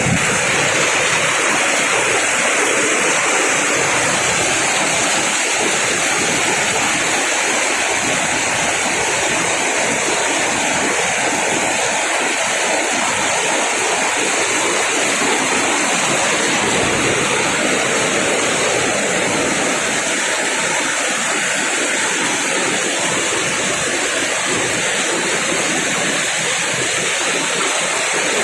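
Heavy tropical rain pouring down in a steady, loud rush.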